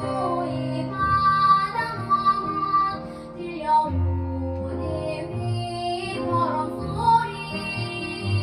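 A child singing a Jeju-dialect children's song over instrumental accompaniment.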